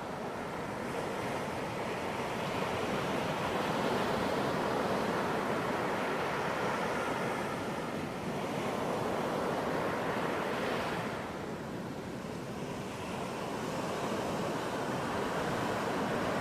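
Ocean surf washing onto a beach: a steady rush of breaking waves that swells and eases over several seconds, dipping briefly twice.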